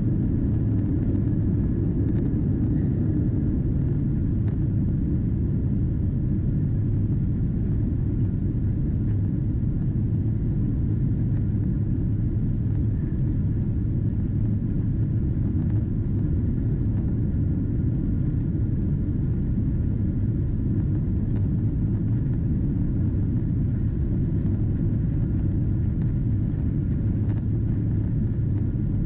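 Steady low rumble inside the cabin of a Boeing 777-200ER airliner climbing after takeoff: engine and airflow noise at an even level.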